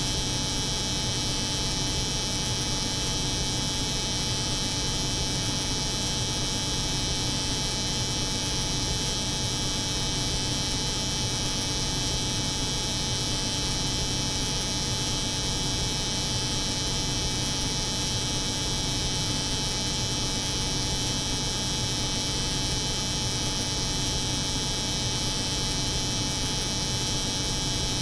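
Steady layered drone: an electric hair clipper buzzing continuously over the low hum of a cold room, unchanging throughout.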